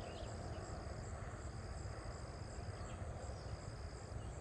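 Insects trilling steadily in an open field: a high, thin buzz that breaks off briefly a few times, over a low, uneven rumble.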